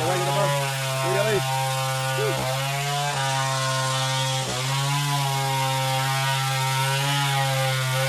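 Two-stroke chainsaw running at high speed while cutting wood. Its pitch drops briefly a few times as the chain bites in, then recovers.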